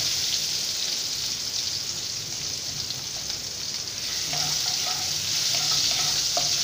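Chopped tomatoes and green chillies sizzling in hot tempered oil in a non-stick kadai, stirred with a wooden spatula. There is a steady frying hiss throughout, with small ticks of the spatula against the pan in the second half.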